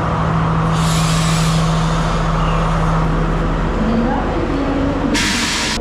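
Diesel train at a station: a loud, steady engine drone that fades after about three and a half seconds, then a short, sharp burst of air hiss near the end, like a brake release.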